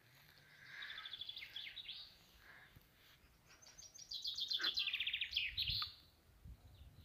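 A songbird singing two quick trilled phrases of rapidly repeated high notes, one about a second in and a longer one about four seconds in.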